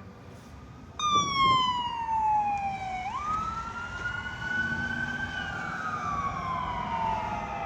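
Electronic siren of a responding fire apparatus wailing: it comes on suddenly about a second in, slides down in pitch, jumps back up and then rises and falls slowly through a long wail cycle.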